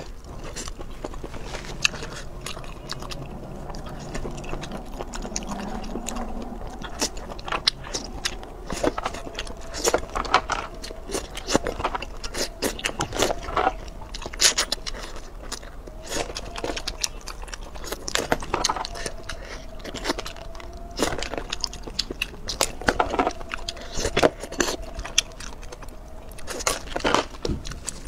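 Close-miked eating sounds of spicy seafood and perilla-leaf wraps: wet chewing with many sharp, irregular mouth clicks and smacks. A faint held tone comes and goes behind them.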